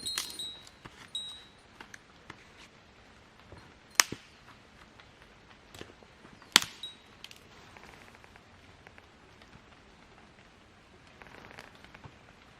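Campfire wood crackling and popping: scattered faint ticks, with two sharp loud pops about four and six and a half seconds in. A brief metallic clink rings at the start.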